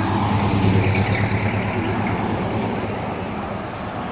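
Car engine running with a low, steady hum that gets louder about a second in and then slowly eases off.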